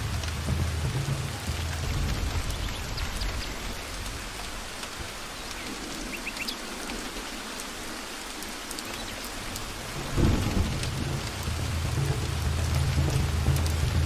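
Steady rain falling with low rolling thunder. The rumble dies away in the middle, and a sudden loud thunderclap comes about ten seconds in before the rumbling picks up again.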